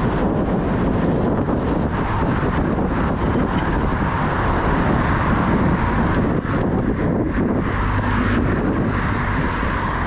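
Steady wind rush on the microphone of a camera riding along on a moving bike.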